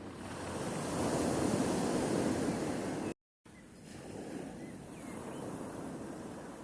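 Sea waves washing onto the shore: a wave surges up and breaks over the first three seconds. The sound then cuts out completely for a split second, and quieter surf goes on.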